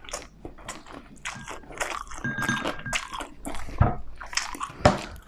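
Close-miked chewing and crunching of crisp food in a mukbang: an irregular run of crunchy bites and chews, the two loudest crunches coming about four and five seconds in.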